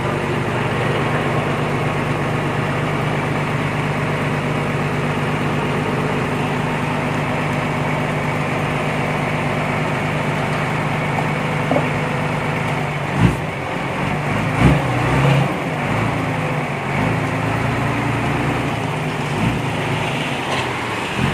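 Heavy earthmoving machine's diesel engine running at a steady note. About two-thirds of the way through come several loud knocks, and after them the engine note shifts and wavers.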